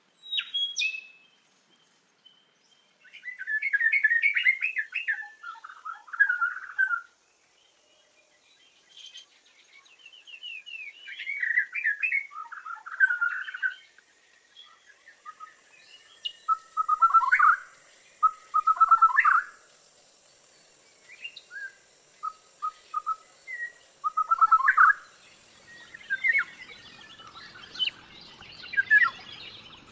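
Songbird singing: a series of short chirping, warbling phrases with pauses between them, some phrases repeated, turning into busier overlapping chatter near the end.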